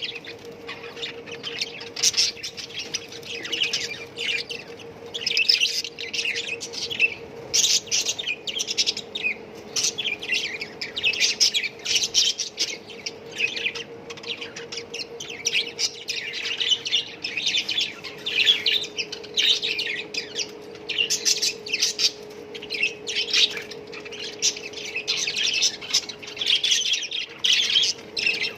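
A cageful of budgerigars chattering and chirping, many birds calling over one another without a break, over a faint steady hum.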